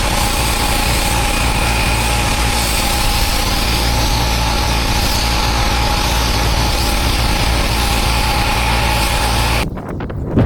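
Pressure washer running steadily, a motor hum under a hiss, cutting off abruptly near the end.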